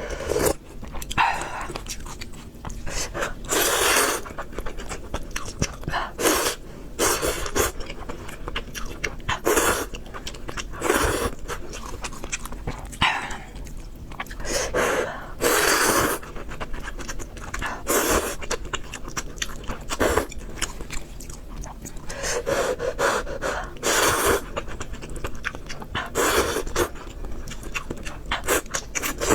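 Close-miked eating of spicy fried noodles and pork: slurps, chewing and heavy breaths, coming in noisy bursts every second or two.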